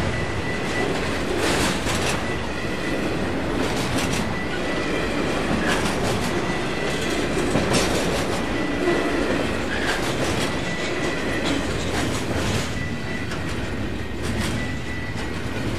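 A train rolling past, its wheels clicking over the rail joints in a steady rumble, with a thin high wheel squeal that comes and goes.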